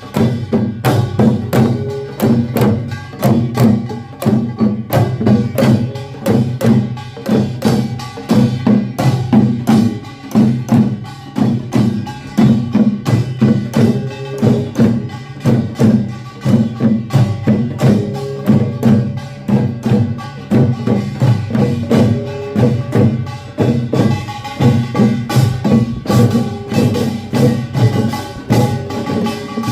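Korean pungmul percussion band playing: small hand gongs, drums and a large gong struck together in a fast, steady, driving rhythm.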